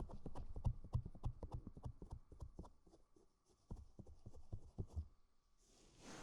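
Knit cardigan rubbing and pressing on a binaural microphone's ears: a run of irregular soft crackles and taps that thins out, then a rising rush near the end as the fabric covers the ear.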